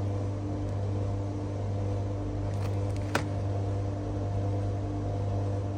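A steady low mechanical hum with several held tones above it, with one sharp click about three seconds in.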